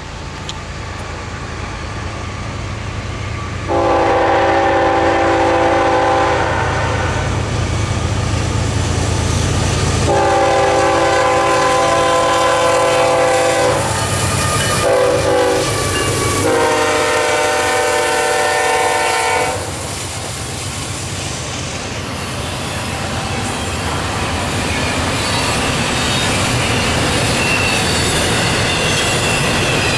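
Lead BNSF GE diesel locomotive's air horn sounding the grade-crossing pattern, long, long, short, long, over the low rumble of the approaching diesels. After the last blast the locomotives pass and double-stack intermodal cars roll by with wheel clatter and a faint high wheel squeal.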